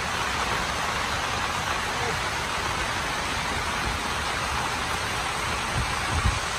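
Steady rain falling, an even hiss, with a couple of low thumps near the end.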